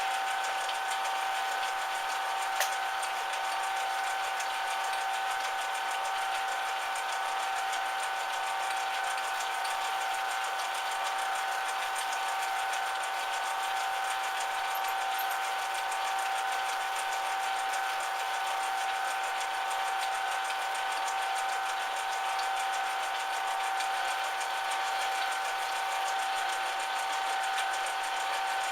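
Metal lathe running steadily, its motor and gears giving a constant whine over a mechanical hum, with a faint click about two and a half seconds in.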